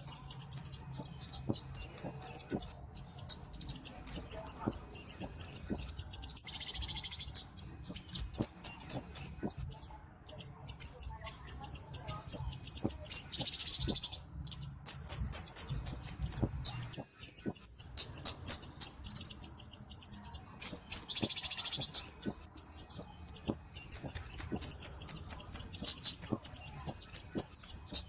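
Kemade cabe-cabean (flowerpecker) singing: very high, rapid runs of thin ticking chips in bursts of one to two seconds, separated by short pauses.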